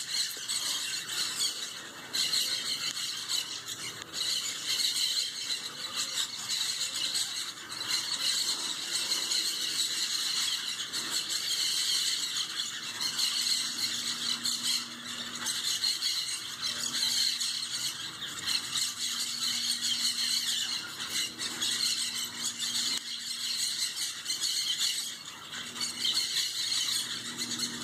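A flock of parrots squawking without a break in a tree, many shrill calls overlapping into a constant, loud chatter.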